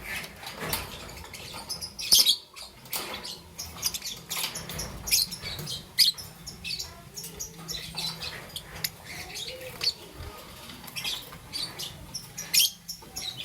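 Young peach-faced lovebird chirping: a running series of short, high, sharp chirps, with louder calls about two seconds in and again near the end.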